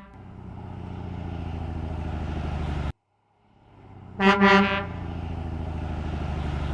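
Truck engine running with a fast pulsing rumble that builds, cuts off abruptly about three seconds in, and starts again. A short horn honk comes about four seconds in.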